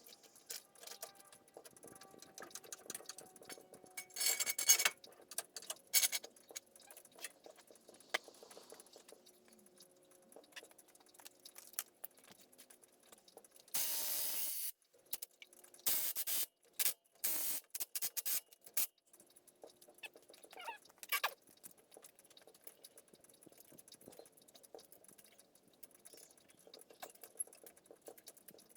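Tools and brake parts being handled during a front brake pad and rotor job: scattered small metallic clicks and clinks, with a few short bursts of noise around the middle.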